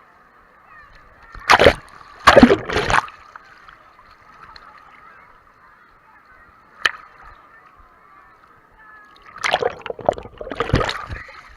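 Pool waves splashing and sloshing over a GoPro in its waterproof case, muffled by the housing. Loud surges come about a second and a half in, around two and a half seconds in, and again from about nine and a half seconds, with a single sharp knock about seven seconds in.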